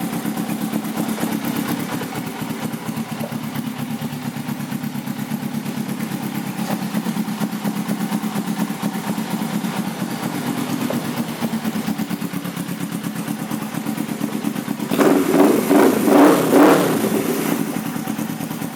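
2006 Suzuki GS500F's air-cooled parallel-twin engine idling steadily through a Delkevic aftermarket exhaust. About fifteen seconds in, the throttle is blipped a few times, then the engine settles back down near the end.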